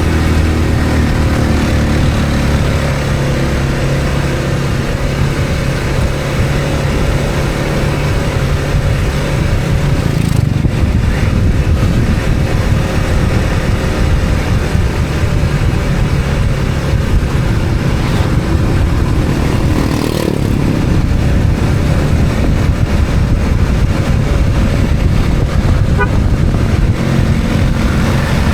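A motor vehicle on the road, its engine running steadily under heavy road and wind noise.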